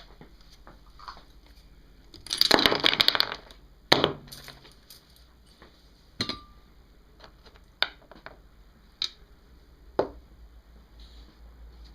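Metal tools working on a motorcycle engine: a loud rattling burst of a little over a second, a sharp click, then a few separate metallic clinks of tools and small parts.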